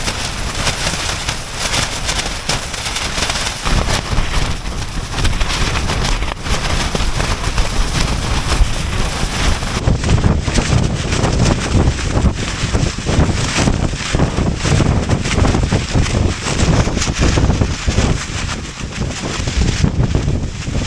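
Strong blizzard wind buffeting the microphone in gusts, a heavy rushing roar with no let-up.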